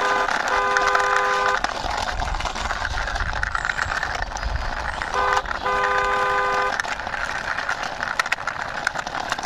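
A car-horn sound toots three times, long, short, then long, over a steady rough running noise as a toy car is driven by hand.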